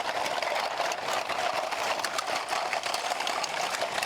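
Homemade percussion effect made from a recycled Yakult bottle, played without pause: a dense, crackling rasp of fine clicks over a steady buzzing note.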